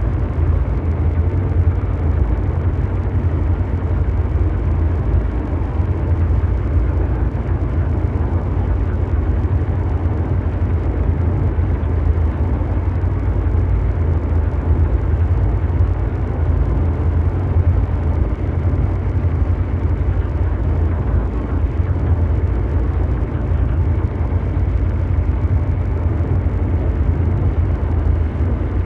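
Continuous low mechanical drone: a steady, deep engine-like rumble with a noisy hiss above it, unchanging throughout.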